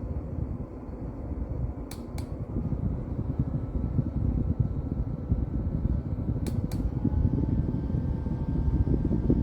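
Small JISULIFE rechargeable desk fan running, its airflow rumbling on the microphone. Two quick double clicks come about 2 s and 6.5 s in, and after each one the motor's tone steps up and the fan grows louder.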